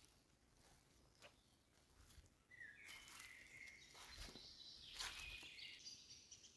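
Faint bird calls: two short phrases of whistled notes, the first about two and a half seconds in and the second about five seconds in, with a few soft clicks between, over otherwise near silence.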